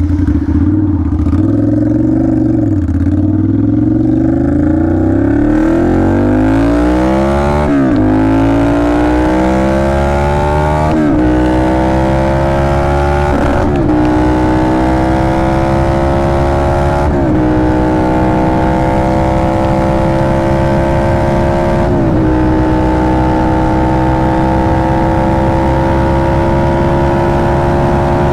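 2009 Ducati Monster 696's air-cooled L-twin engine pulling away from low revs and accelerating, its note rising with short breaks about five times as it shifts up through the gears. It then settles into a steady cruise.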